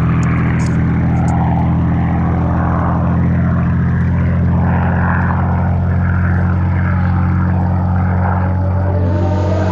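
Supermarine Spitfire's Rolls-Royce Merlin V12 engine and propeller running steadily at a constant note. Music comes in near the end.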